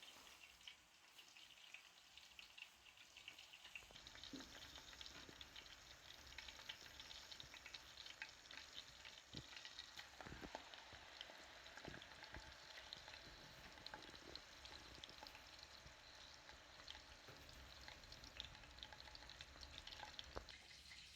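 Food frying in hot fat, a faint steady crackle that grows louder and brighter about four seconds in, with a few soft knocks.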